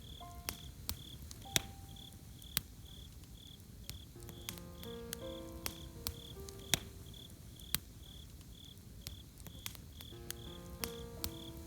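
Campfire crackling with scattered sharp pops over a low rush, crickets chirping steadily about twice a second, and a soft melody of gentle held notes coming in phrases near the start, in the middle and near the end.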